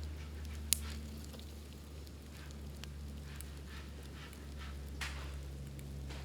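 Bamboo burning in an open bonfire, crackling with scattered snaps over a steady low rumble. There is a sharp pop about a second in and another near the five-second mark.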